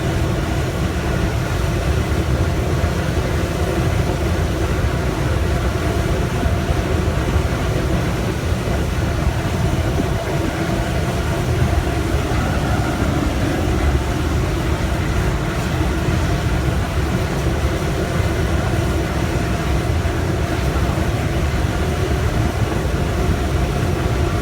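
700 kW industrial wood pellet burner running: a steady low rumble of flame and blower fan, with several steady humming tones over it.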